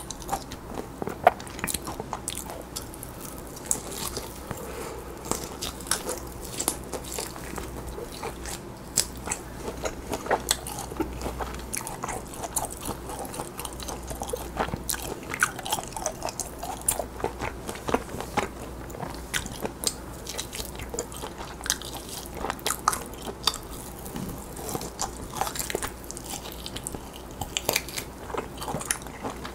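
Close-miked chewing and biting of roasted lamb meat pulled from the bone, with frequent short, sharp mouth clicks at an irregular pace.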